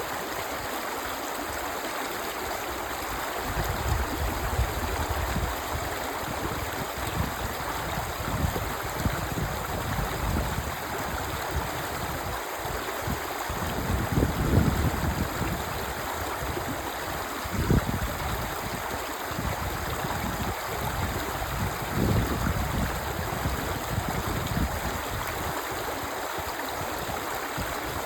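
Clear stream water flowing steadily where two streams meet, a continuous rushing murmur. A few brief low rumbles rise above it, about four, fourteen, seventeen and twenty-two seconds in.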